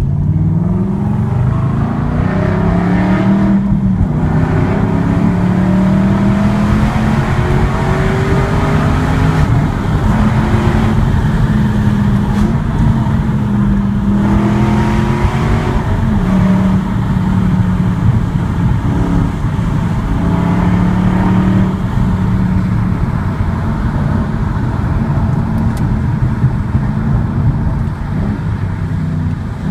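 Aston Martin V8 Vantage's V8 engine and loud exhaust under way, rising in pitch as it accelerates through the first seconds, with a gear change about four seconds in, then running at a mostly steady pitch with a few brief drops and pick-ups in revs.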